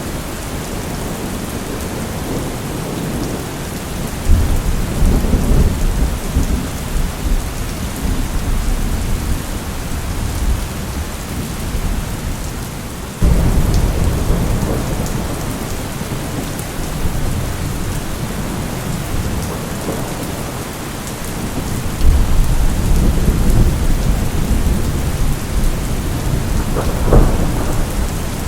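Thunderstorm: steady heavy rain hissing on surfaces while thunder rolls in low rumbles three times. One rumble starts suddenly about halfway through, and a sharper crack comes near the end.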